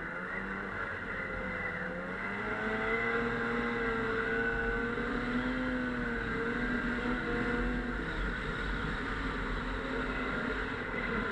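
Snowmobile engine running while riding, its pitch rising and falling as the throttle changes.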